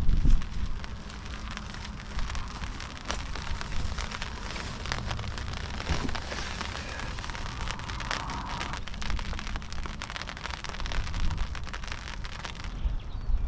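Steady rain falling, with many small drop taps, and gusty wind rumbling on the microphone, strongest right at the start.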